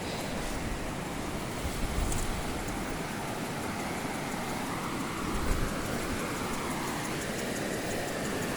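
Steady rushing of falling water from a nearby waterfall, with low bumps of wind or handling on the microphone about two seconds in and again near five and a half seconds.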